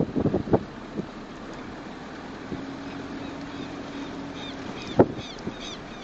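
Wind buffeting the microphone with low thumps at the start. From about halfway, a bird calls over and over in short, quick high chirps, two or three a second. A faint steady hum runs through the middle, and there is a single sharp knock near the end.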